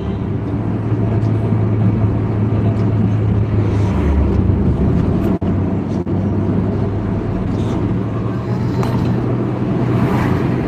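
Heavy road vehicle's diesel engine running steadily, a low drone with road noise, with a momentary dropout about five and a half seconds in.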